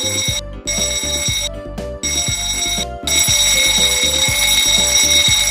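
Ship's emergency alarm sounding the abandon-ship signal: a run of short blasts broken by brief gaps, then one long unbroken blast from about three seconds in. Background music with a steady beat plays underneath.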